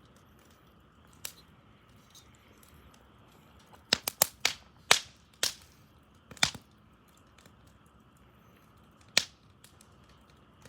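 Wood fire crackling, with sharp pops from the burning wood: one about a second in, a quick run of loud pops in the middle, and another near the end, over a faint steady hiss.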